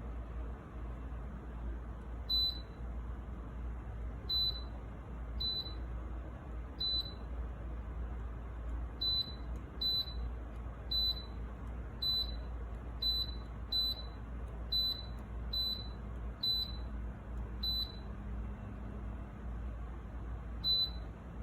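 Dreo tower space heater's control panel giving short single electronic beeps, about fifteen of them at irregular intervals, as its buttons or remote are pressed. A steady low hum runs underneath.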